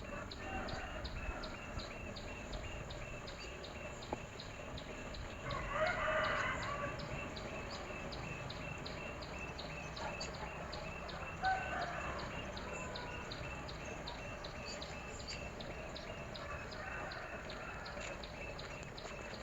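A rooster crows once, about six seconds in, with shorter bird calls later on. Under it runs a steady high ticking, about three ticks a second.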